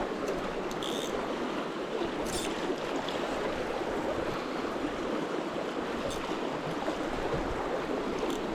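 River water rushing steadily past: the Russian River's current, a constant even rush with a few faint brief ticks.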